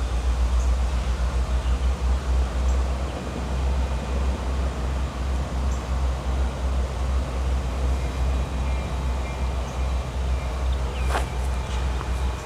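Norfolk Southern diesel-electric freight locomotive running with a steady, low rumble as the train pulls out of the yard, with a single sharp click near the end.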